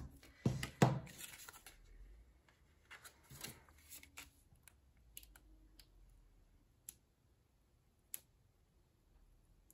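Hands working double-sided foam tape and cardstock: a couple of sharp crinkling clicks in the first second, then scattered rustles and a few single small ticks.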